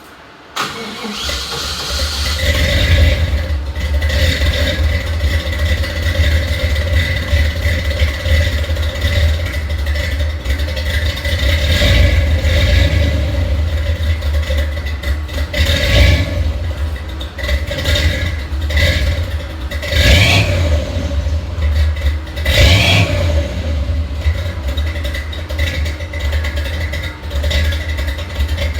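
Propane-fuelled 5.7 L small-block Chevy V8 (mild cam, 10:1 compression) in a 1985 Jeep CJ7, cold-started: it catches about half a second in and then runs with a deep steady rumble, briefly louder a few times in the middle, as if blipped.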